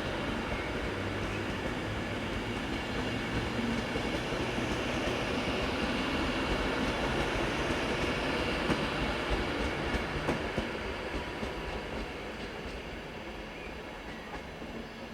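A train running along the track, with a few wheel clicks over rail joints in the middle; the sound fades away over the last few seconds.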